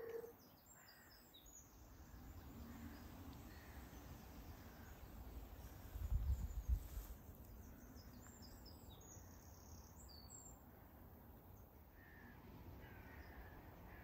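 Faint outdoor birdsong: scattered short, high chirps and a few lower calls. A brief low rumble about six seconds in is the loudest moment.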